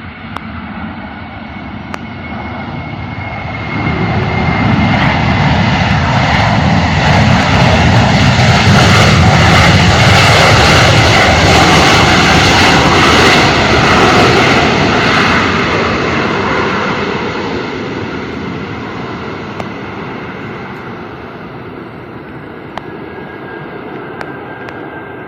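Jet airliner passing by: engine rumble with a high whine that swells about four seconds in, stays loud for roughly ten seconds, then fades away.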